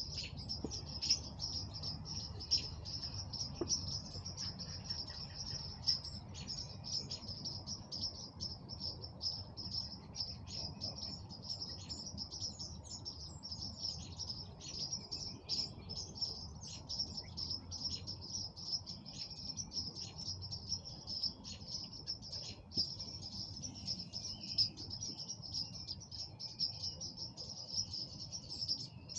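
Outdoor spring evening ambience: a continuous high-pitched trill throughout, with many short bird chirps scattered over it and a low steady rumble underneath.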